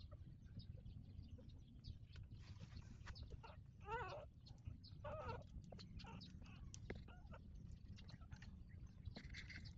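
Newborn puppy whining: two short, wavering cries, about four and five seconds in. Faint small clicks run throughout over a low steady hum.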